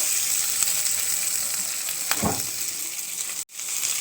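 Small onions (shallots) frying in hot coconut oil in a pan, a steady sizzle, with one short knock about two seconds in. The sound drops out for an instant about three and a half seconds in.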